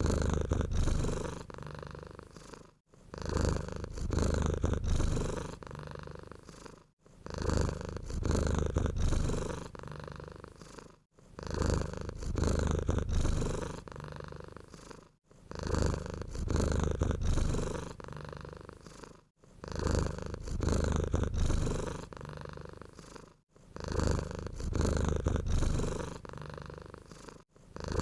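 Domestic cat purring close up, a low rumble that swells and eases in steady cycles of about four seconds as the cat breathes in and out.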